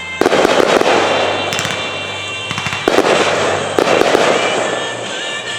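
Fireworks shells bursting with crackling, three main bangs about a fifth of a second, three seconds and nearly four seconds in, with music playing underneath.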